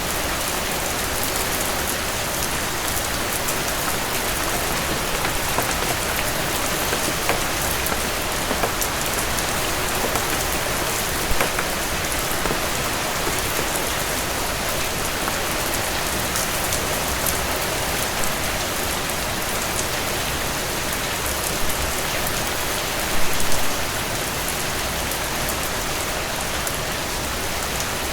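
Heavy rain falling steadily on a porch, an even hiss. A few brief louder pops stand out, one about eleven seconds in and a short cluster about twenty-three seconds in.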